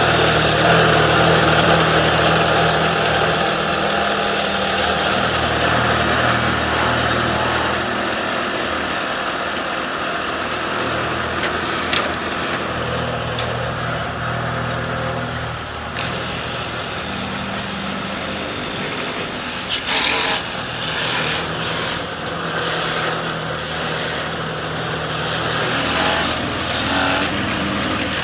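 Workshop machinery running: a steady motor hum under a broad mechanical noise, with a sharp click about twelve seconds in and a short burst of louder noise about twenty seconds in.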